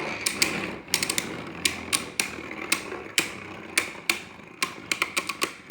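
Two Beyblade Burst tops spinning in a plastic stadium: a steady whir that fades, with many sharp irregular clacks as they collide with each other and the stadium walls, coming thicker near the end.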